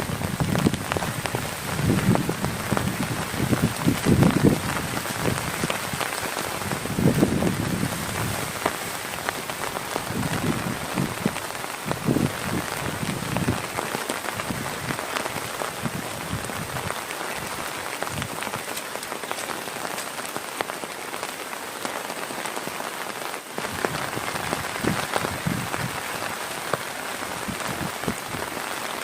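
Heavy rain pattering steadily, with irregular bursts of low rumble through the first half that die away about halfway through.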